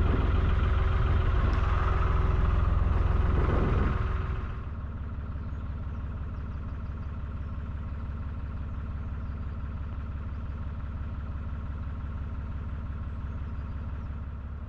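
Narrowboat's diesel engine running steadily as the boat approaches a lock; about four seconds in it drops to a quieter, lower-revving tick-over.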